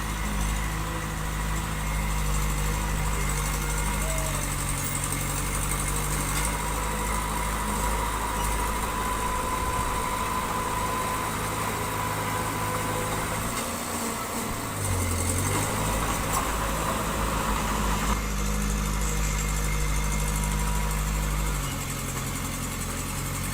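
Diesel engine of heavy construction machinery running steadily; its note drops away and shifts pitch briefly about fourteen seconds in, then settles again.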